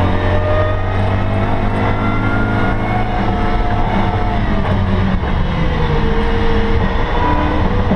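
BMW E92 M3's V8 engine running hard, heard inside the stripped, roll-caged cabin. Its pitch rises, drops back a little around the middle, then climbs again near the end as the car is driven at pace.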